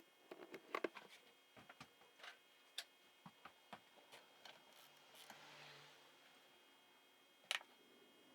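Light clicks and knocks of tools and small metal parts being handled while a Yamaha YZ85 engine is being taken apart. They come scattered, most in the first half, with one sharper click near the end.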